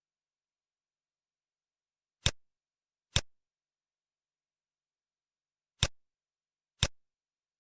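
Four short, sharp clicks: two about a second apart, then two more a few seconds later, the click sounds of an on-screen matching exercise.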